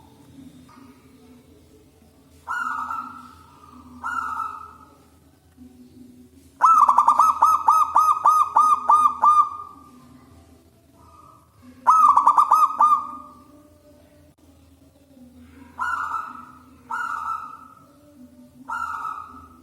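Zebra dove cooing: several short single coos, and twice a longer run of quick rhythmic coos, about three a second, the first lasting about three seconds.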